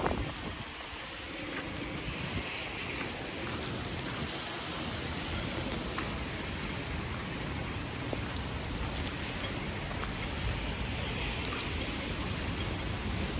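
Heavy typhoon rain falling steadily, a dense even hiss with scattered drops ticking on a surface.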